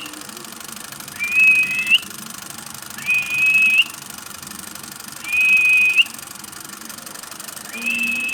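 A pet parrot whistles the same short high note four times, about two seconds apart. Each whistle rises quickly into a held tone and ends with a slight upturn.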